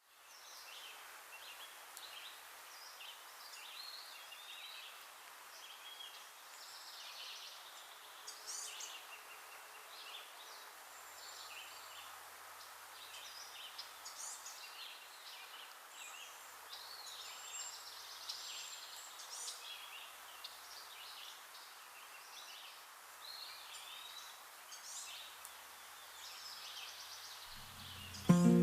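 Many wild birds calling and singing at once, short chirps and warbles overlapping, over a faint steady hiss.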